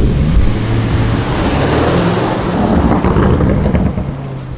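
A supercar's engine running hard as the car drives past, swelling to its loudest a little past the middle and fading away near the end.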